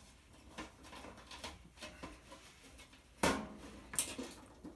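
Scattered light clicks and knocks of hand tools and metal parts being handled while a toaster oven is dismantled, with two sharper knocks about three and four seconds in.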